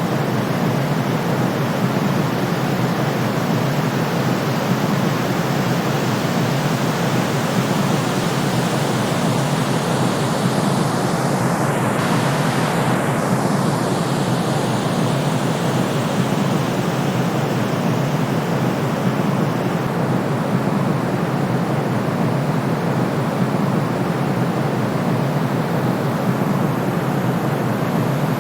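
Steady, unchanging sleep noise: a continuous hiss with more weight in the low and middle range than at the top, closer to pink noise than pure white noise.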